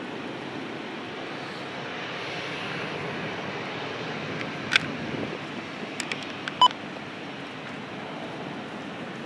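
Steady rushing noise of a distant aircraft, swelling slightly toward the middle. A few sharp clicks come in the second half, with a short beep about six and a half seconds in.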